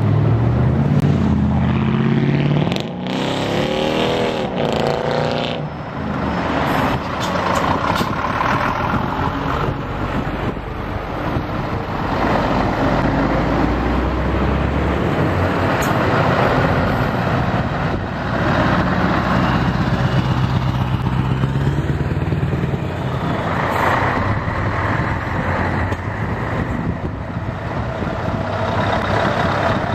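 Scania trucks driving past, their diesel engines running loud and steady, with a rising and falling engine note a few seconds in.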